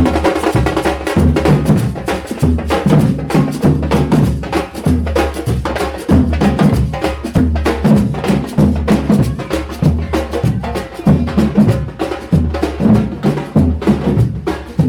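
Drums and percussion playing a fast, steady rhythm: sharp clicking strikes over deep drum beats.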